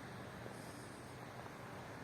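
Faint, steady hiss of light wind on the microphone.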